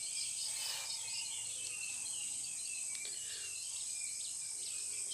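Faint outdoor background: small birds chirping now and then over a steady high insect drone.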